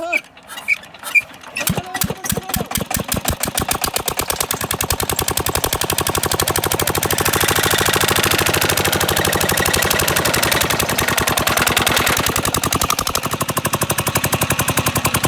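Diesel engine being started: a few slow, uneven knocks at first, then it catches and the firing beats quicken into a fast, steady chugging run.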